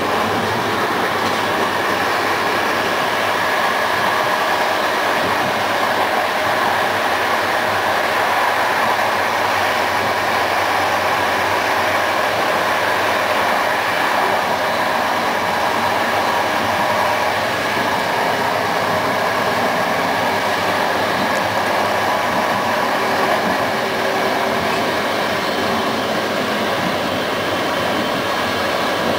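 Passenger train, hauled by an EU07 electric locomotive, running steadily at speed, heard from aboard: a continuous rolling rumble of steel wheels on the rails with faint steady tones over it.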